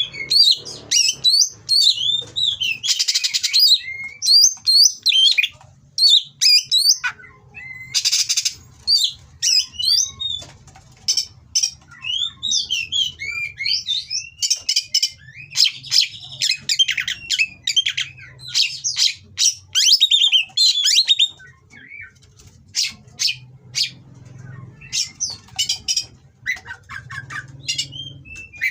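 Oriental magpie-robin (kacer) singing a fast, varied song of whistled glides and chattering notes mixed with harsh rasping calls. Two short harsh rasps come about 3 and 8 seconds in.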